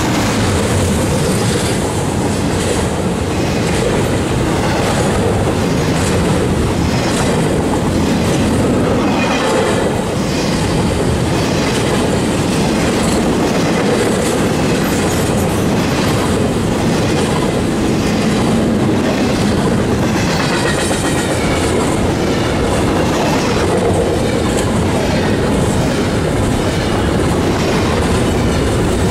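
Double-stack intermodal freight train's well cars rolling past close by at speed: a loud, steady rumble with a regular clack of wheels over the rail joints.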